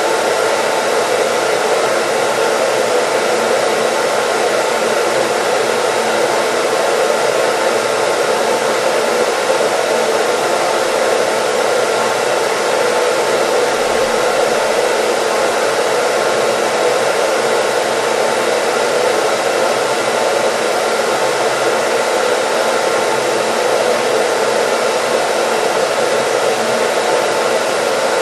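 Hair dryer running steadily: a continuous, even rush of blowing air with a faint steady hum under it and no change in speed.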